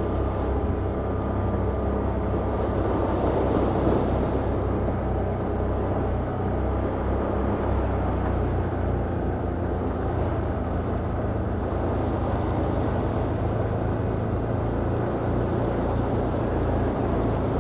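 Can-Am Outlander ATV engine running steadily as the quad rides along a trail.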